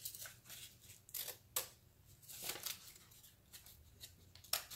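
Scissors snipping paper in a handful of separate short cuts, spaced irregularly about a second apart, cutting a tail into a folded paper airplane.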